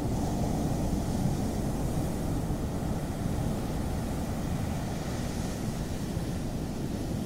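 Ocean surf: a steady low rumble of breaking waves with a softer hiss of wash that swells about two-thirds of the way in. A faint steady hum runs under it and fades out about halfway.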